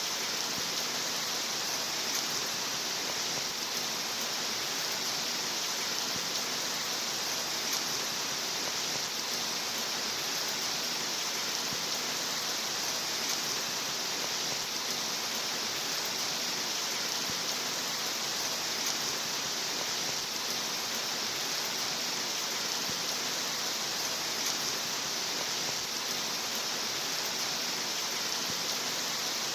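Steady, even rain, a constant hiss with no single drops or changes standing out.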